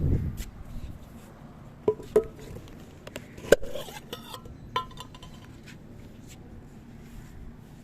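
A few sharp clinks against a dish, each ringing briefly, the loudest about three and a half seconds in.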